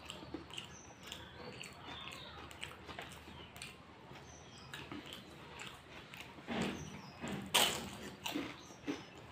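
Close-up mouth sounds of a person chewing fried samosa, with small clicks and smacks throughout. A few louder bites into the crisp pastry come near the end, the loudest about three-quarters of the way through.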